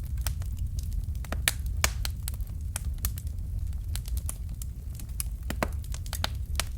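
Fire in a fireplace crackling: irregular sharp pops and snaps, several a second, over a steady low rumble.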